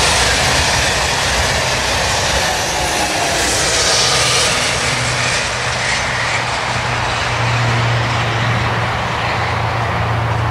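TGV high-speed train passing at speed and running away into the distance: a loud, steady rush of wheels and air. A low steady hum comes up in the second half.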